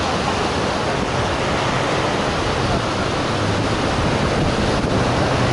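Heavy surf and strong wind blowing across the microphone, a steady loud rush of noise with a deeper rumble that grows toward the end.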